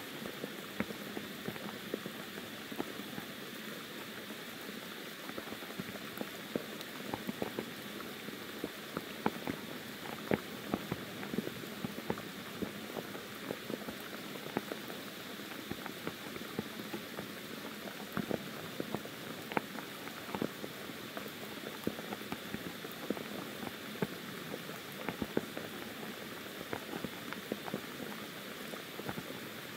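Light monsoon rain falling on forest foliage: a steady patter with many individual drops ticking at irregular moments, the rain tapering off.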